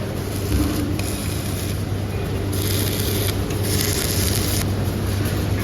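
Workshop machinery running with a steady low hum, broken twice around the middle by bursts of high hissing.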